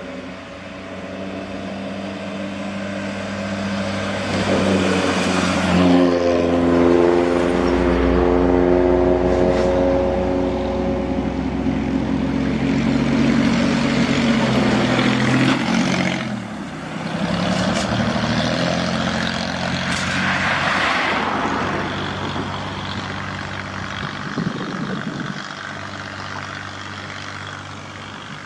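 Large truck's diesel engine climbing in pitch as it pulls through, then easing off, with short rushes of hiss about two-thirds of the way through.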